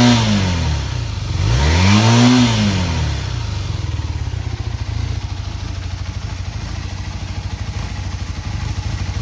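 Honda CB250T parallel-twin motorcycle engine: a rev dies away, the throttle is blipped once more, rising and falling, then it settles into a steady idle. It runs without abnormal noise, as the owner presents it.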